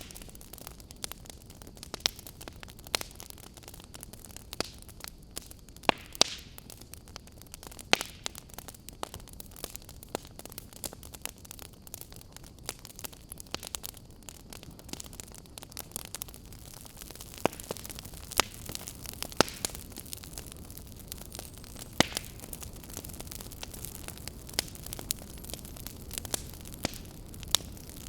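Wood fire in a fireplace crackling: irregular sharp pops and snaps, a few of them loud, over a steady low hiss.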